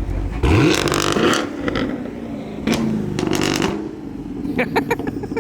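A modified car's engine revved hard twice, its pitch climbing quickly each time, about half a second in and again near the middle, followed by a quick stuttering run of short blips near the end.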